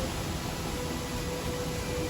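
Steady rushing of a rocky mountain stream and its waterfalls.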